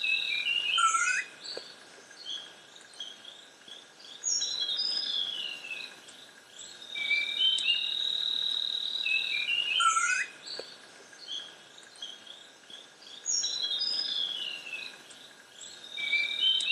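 Forest ambience of insects and birds. A steady high insect buzz comes in bursts of two to three seconds over a faint constant insect drone, with assorted bird chirps and short falling whistles. The same sequence repeats about every nine seconds, like a looped ambience track.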